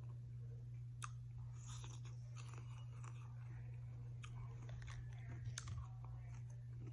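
Close-up chewing of KFC Extra Crispy fried chicken: scattered crisp crunches and crackles from the breading, over a steady low hum.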